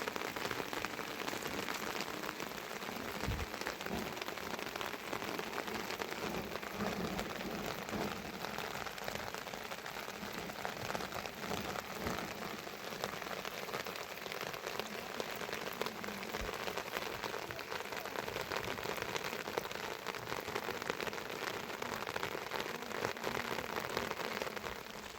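Steady heavy rain pattering on surfaces, with a few faint low thuds.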